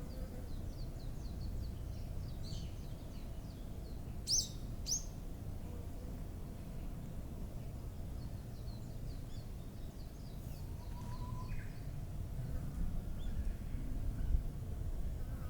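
Small birds chirping in the open: runs of quick high chirps, and two sharp, loud calls about four and five seconds in, over a steady low rumble of background noise.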